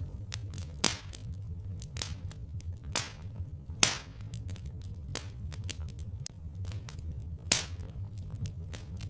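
Log fire crackling, with irregular sharp pops and snaps, a few louder ones, over a steady low rumble.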